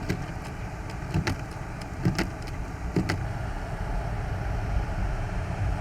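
A car driving, a steady low rumble, with a few sharp clicks in the first three seconds.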